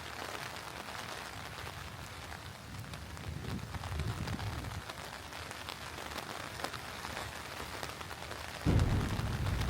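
Steady rain with many small drops pattering, and low thunder rumbling: a soft roll about four seconds in, then a louder peal breaking suddenly near the end.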